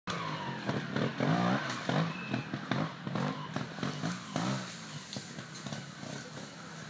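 Trials motorcycle engine revved in short repeated blips, about two a second, growing fainter after about four and a half seconds.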